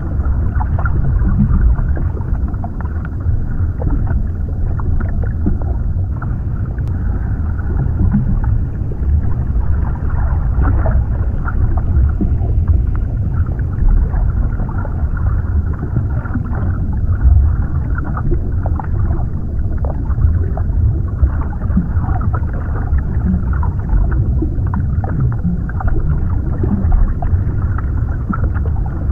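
Underwater ambience: a steady, deep, muffled rumble with faint irregular bubbling and gurgling, and almost nothing in the high range.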